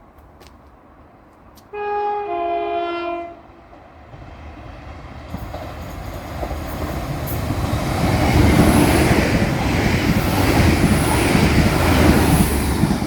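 A passenger train sounds a two-tone horn, a higher note dropping to a lower one, for about a second and a half, then rumbles closer along the track, growing steadily louder until it is running close by near the end.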